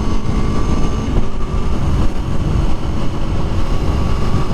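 Aprilia Tuono motorcycle engine running steadily under way, a continuous low rumble.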